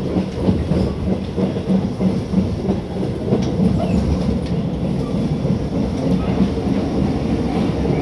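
Tobu 8000 series electric train running at speed, heard inside motor car MoHa 82110: steady running noise of wheels on rail and the DC traction motors and gearing, with a pulsing low hum and a faint steady tone above it.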